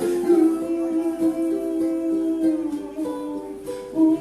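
Ukulele playing chords of a song, with no singing over it.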